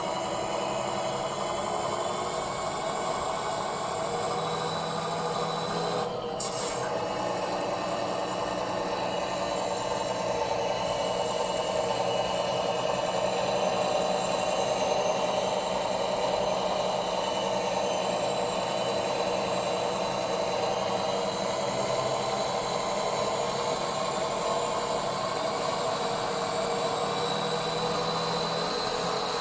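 Tamiya Scania R620 radio-controlled model truck running steadily, a continuous mechanical whine with a rattle.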